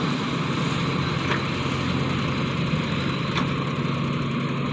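Common-rail diesel engine of a JCB 3DX Plus backhoe loader running steadily at idle.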